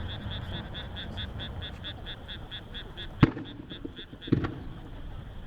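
Aerial fireworks: a sharp shell burst about three seconds in and a weaker one about a second later, over a rumbling background of other bursts. Behind them runs a fast, even series of high-pitched calls, about five a second, which stops about four seconds in.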